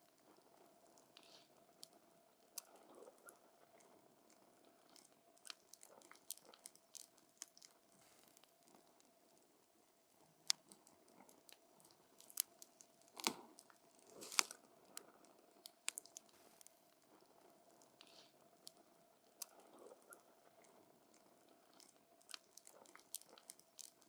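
Wood campfire crackling, with irregular sharp pops and snaps from the burning logs, a cluster of the loudest ones a little before the middle.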